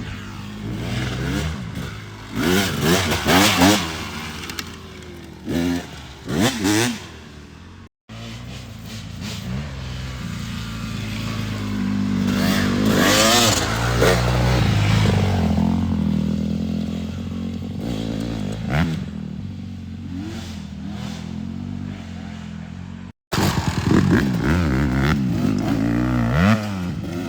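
Dirt bike engines revving up and down while riding, the pitch rising and falling sharply over and over, with a longer steady pull in the middle. The sound cuts out abruptly twice, about a third of the way in and near the end.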